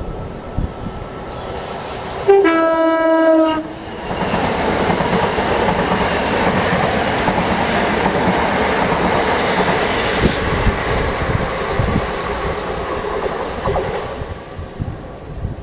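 Thameslink electric train sounding a two-tone horn, a brief higher note then a longer lower one. It then passes through at speed with a loud rushing and clatter of wheels on the rails for about ten seconds, fading near the end.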